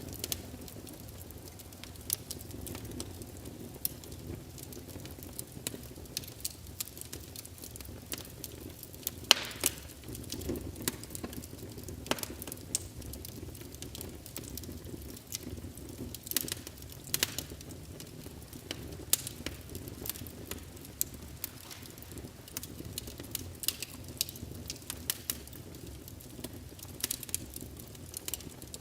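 Fireplace fire crackling, with irregular sharp pops, the loudest about nine seconds in, over a low steady rumble.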